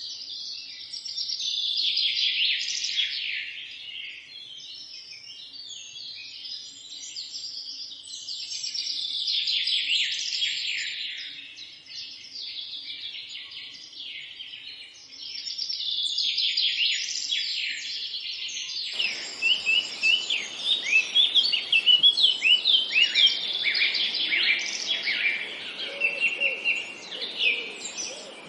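Several songbirds singing together in a dense chorus of chirps and trills that swells and fades in waves. About two-thirds of the way through, the background abruptly becomes hissier and the chirps come louder and sharper.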